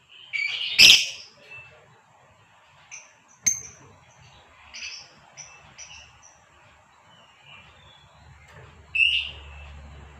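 Female lovebird giving short, high chirping calls in bursts, the loudest near the start and another near the end. There is a sharp click about three and a half seconds in.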